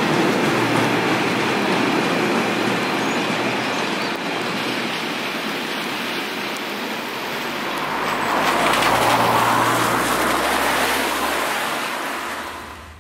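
A train passing close by at speed: a loud, steady rush of wheel and air noise with a low hum underneath. It swells again about eight seconds in, then eases off near the end.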